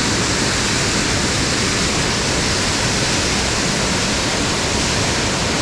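Waterfall on a mountain brook rushing steadily, a loud even hiss of falling water.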